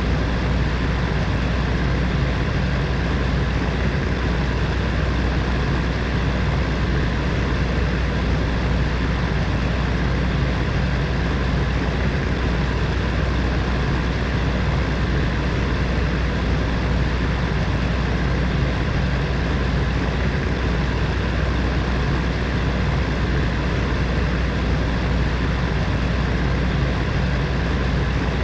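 Electric heater fan running steadily: an even whooshing hum with a strong low drone and faint steady tones, unchanging throughout.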